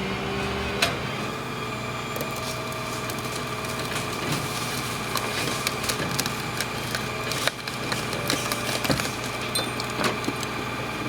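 Steady hum of idling vehicle engines, with scattered sharp clicks and knocks.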